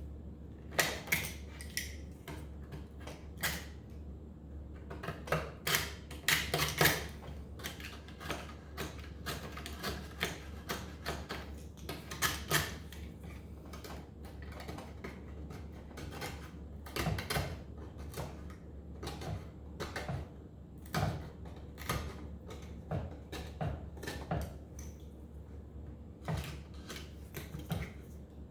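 A blade cutting the old damper felt and its brittle glue layer off the end of a wooden Steinway piano keystick: irregular crackling and cracking clicks, some sharp and loud, over a steady low hum.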